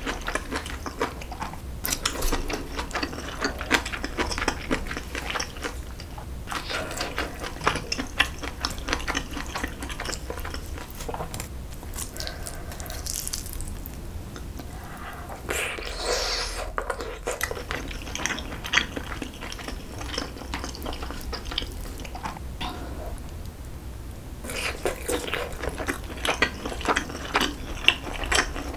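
Close-miked wet chewing and mouth smacking of a person eating kimchi-braised pork back ribs, as dense crackly clicks. It thins out twice, once around the middle and once a little after.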